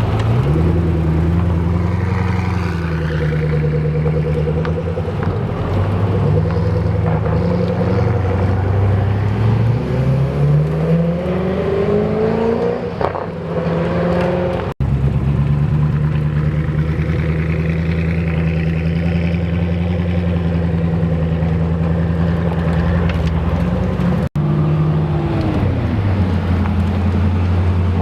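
Koenigsegg supercars' V8 engines running at a steady note, with one engine revving up, its pitch rising, about ten to thirteen seconds in. The sound cuts abruptly twice to another car's engine note.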